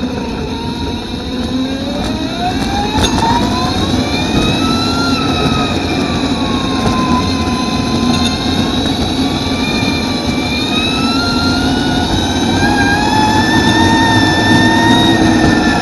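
Electric superbike's motor whining under power, its pitch rising and falling with speed over a steady rush of noise. The whine climbs to about five seconds in, dips, then climbs to its highest near the end before starting to fall, as the bike accelerates and slows through the bends.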